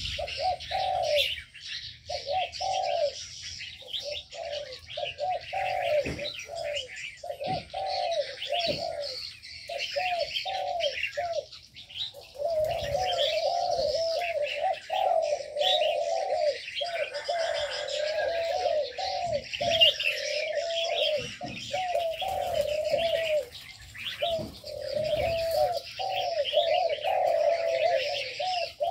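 Aviary doves, spotted doves (terkukur), cooing in runs of short, low, arched notes almost without pause, over a dense background of high chirping from many small birds.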